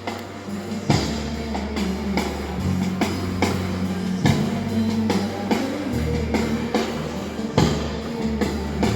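A rock band playing a groovy song: electric guitar over a steady bass line that changes note every second or two, with regular drum hits.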